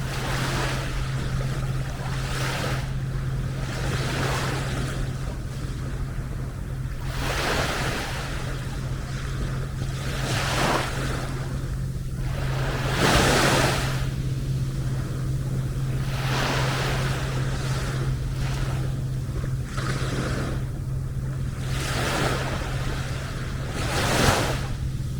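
Small sea waves breaking and washing onto a beach, one swell of rushing water every couple of seconds, the largest about halfway through and another near the end, over a steady low hum.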